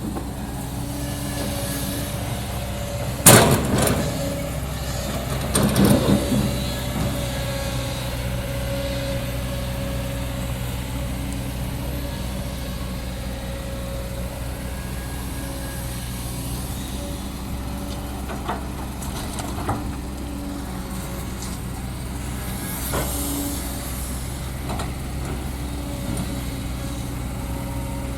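Heavy diesel machinery running steadily, with one loud bang about three seconds in and a brief clatter of knocks around six seconds.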